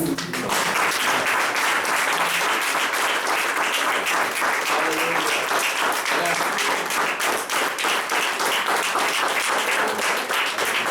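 Congregation applauding: steady, dense hand-clapping in praise.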